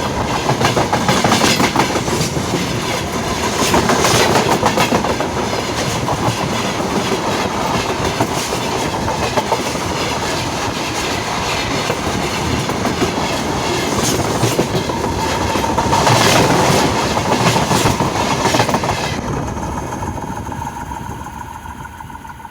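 Railway wagons rolling close overhead, their wheels clattering over the rail joints in quick repeated knocks with a loud steady rumble. The sound swells twice, then fades away over the last few seconds.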